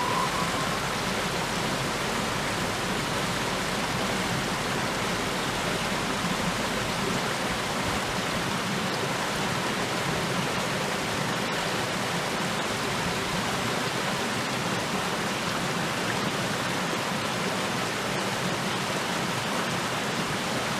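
Mountain headwater stream running steadily, an even rush of water.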